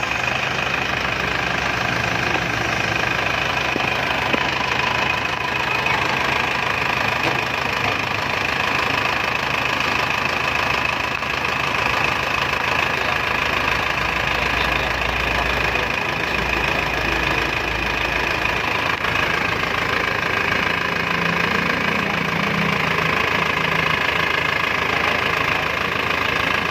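Isuzu Panther 2.5 four-cylinder diesel engine idling steadily just after its first start following an overhaul: new main and connecting-rod bearings, new piston rings and rebored cylinders.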